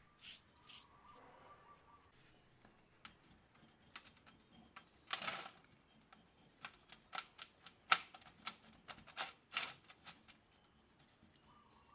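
Irregular light clicks and taps of small parts and tools being handled on a workbench, with two short scraping rushes, about five seconds in and again near the end.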